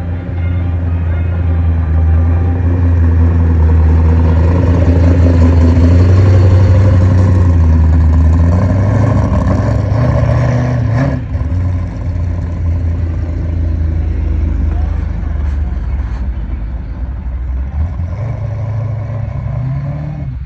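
Car engine running loudly, its note rising briefly in pitch about ten seconds in and then dropping back to a quieter running sound.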